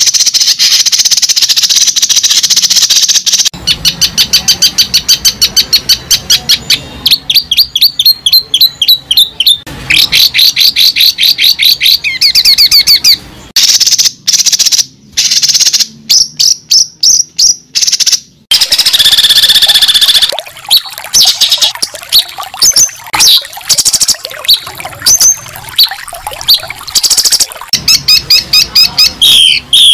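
Birdsong: rapid, repeated high-pitched chirps and trills in changing phrases, loud and close.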